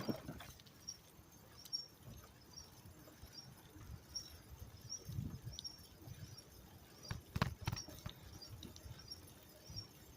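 Faint, short high-pitched squeak repeating steadily, about three times every two seconds, as from a bicycle turning over, with occasional low bumps and a brief rattle of clicks a little past the middle.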